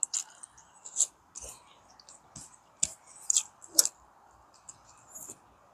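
Close-miked eating sounds of fried fish eaten by hand: wet chewing, lip smacks and finger sucking. Sharp smacks come irregularly, about every half second to a second.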